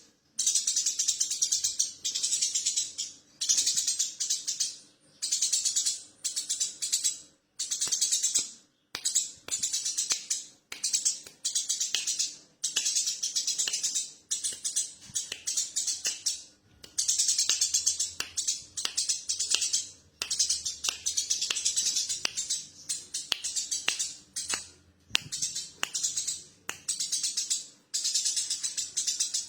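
Eurasian tree sparrow giving its rapid rattling chatter ('cetrekan'), in repeated bursts of one to two seconds with short pauses between.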